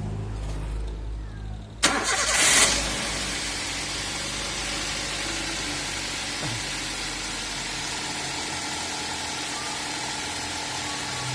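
Toyota Avanza engine cranked and started about two seconds in, with a short loud burst at the start, then running steadily with a broad, even hiss over it.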